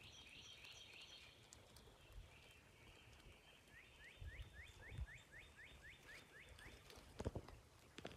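Faint outdoor background in which a bird gives a quick run of about a dozen short rising chirps, roughly three a second, over a thin high buzz. A couple of soft low thumps, from handling or footsteps, come near the end.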